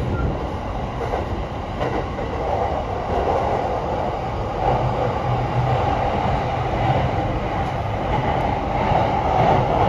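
Running noise heard inside a moving electric train's passenger car: a steady rumble of wheels on the rails, with a low hum that comes in about halfway.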